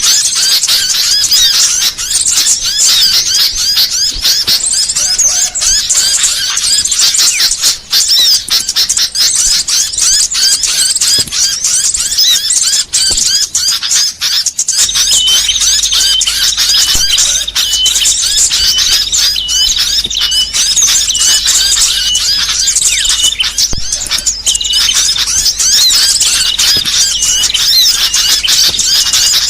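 Dense, continuous twittering and rapid high chirps of many small songbirds, mixed together as a songbird training track. About halfway through, a short note repeated at one steady pitch joins in, with a low hum underneath.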